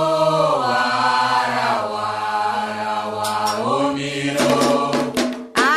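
Voices singing a Candomblé chant to the orixás in long-held notes, with sharp percussion strikes joining in about three seconds in.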